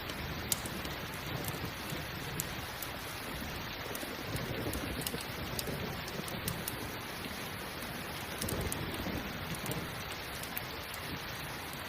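Steady rain mixed with a crackling campfire, whose sharp pops come at irregular moments. Low thunder rumbles swell about four seconds in and again about eight and a half seconds in.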